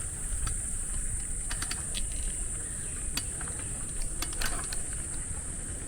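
A single-speed bicycle being ridden, with irregular clicks and rattles, over a low rumble of wind and a steady high-pitched insect drone.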